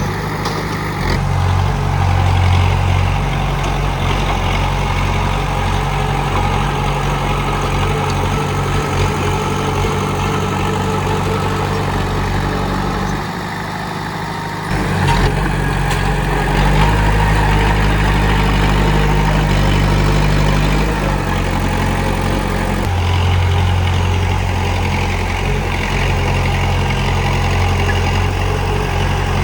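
Komatsu D31P bulldozer's diesel engine running, its pitch and load shifting as it works; it eases off about 13 seconds in and picks up again a couple of seconds later.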